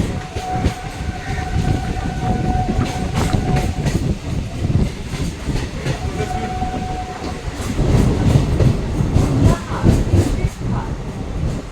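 Passing train: a low rumble with wheels clattering over the rail joints. A steady horn note is held for about four seconds at the start and sounds again for about a second around the middle.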